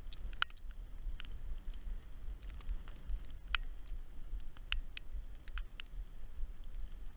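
Raindrops tapping irregularly on the action camera's housing, a dozen or so sharp ticks, over a steady low rumble of wind on the microphone.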